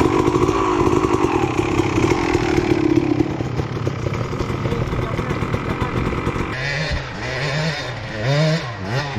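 Dirt bike engines. One runs at a steady pitch and drops away about three seconds in. From about six and a half seconds in, the revs rise and fall in short blips as a bike is worked on the hill.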